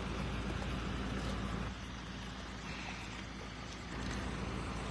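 A parked SUV's engine idling: a steady low hum over outdoor background noise.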